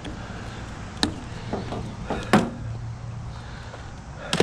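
Sharp knocks from scrap being handled and loaded, three in the first half and one more near the end, over a low steady hum.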